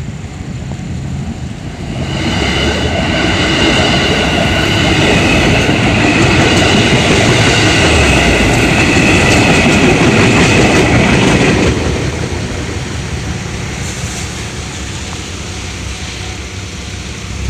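A JR West 221 series electric train passing a level crossing. It swells up about two seconds in, stays loud for about ten seconds, and dies down about twelve seconds in.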